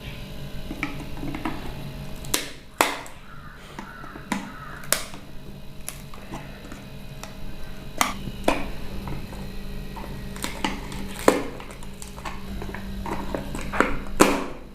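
Irregular sharp clicks and knocks of a burnt three-pin plug and switchboard socket being taken apart by hand, over a low steady hum.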